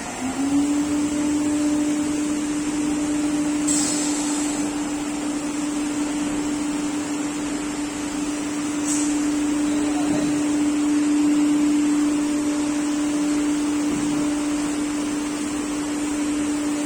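CNC router cutting a board panel: its spindle rises in pitch, settles into a steady whine about half a second in and holds it, over a steady rushing noise.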